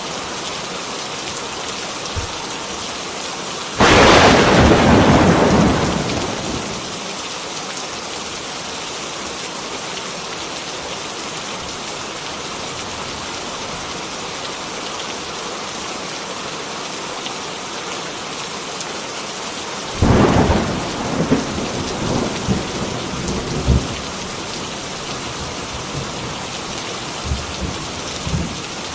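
Heavy rain falling steadily, with two thunderclaps: a sharp loud crack about four seconds in that rumbles away over a couple of seconds, and another clap near two-thirds through, trailing off in crackling rumbles.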